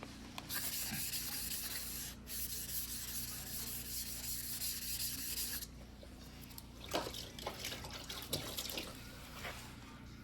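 A steady hiss for about five seconds, with a brief break near two seconds, then irregular scraping strokes of a single-bevel sashimi knife's steel blade rubbing on a wet whetstone.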